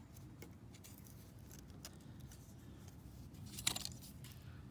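Small metallic clicks of feeler gauge blades being fanned apart by hand, with one louder clack a little under four seconds in.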